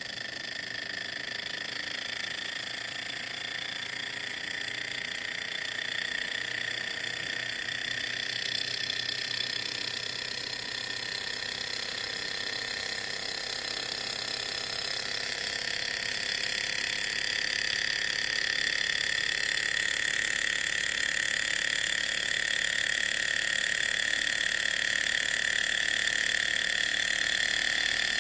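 Small toy Stirling engine running, its flywheel and linkage making a steady, fast mechanical whir with a high whine, slowly growing louder.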